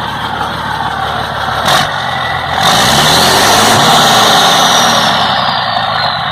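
Truck's Scania 112 diesel engine with a straight-through exhaust running, then revved for about two seconds before dropping back. A short hiss comes about a second and a half in, and a whistle falls steadily in pitch as the revs come down.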